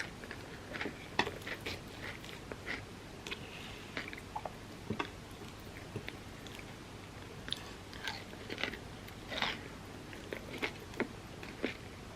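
A person chewing and biting with irregular crunches, eating Biscoff overnight oats topped with set chocolate and a crunchy pistachio kataifi mixture.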